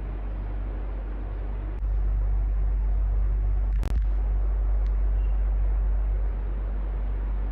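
Electric fan running steadily, a whooshing noise over a low hum. From about two seconds in the low hum swells louder for about four seconds, with one sharp click near the middle.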